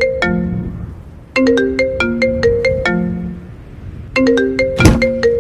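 Mobile phone ringtone playing a short melody of quick, ringing notes. The phrase starts again about every three seconds. A sharp click comes about five seconds in.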